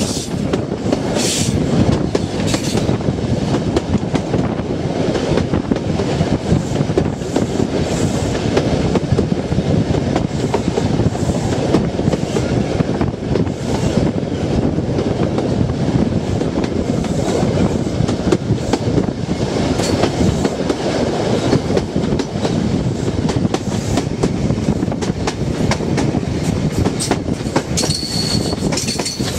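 InterCity 125 (HST) train with Mark 3 coaches running along the line, heard from an open droplight window: a steady rumble and rush of air with the wheels clicking over the rail joints. Near the end a thin high wheel squeal comes in.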